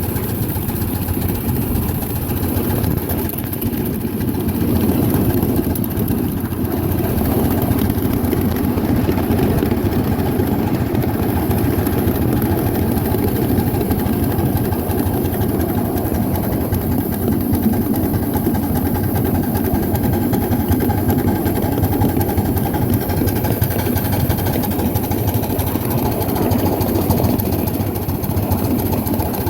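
1/8-scale coal-fired Allen ten-wheeler live steam locomotive running, giving a steady mechanical rumble that holds its level.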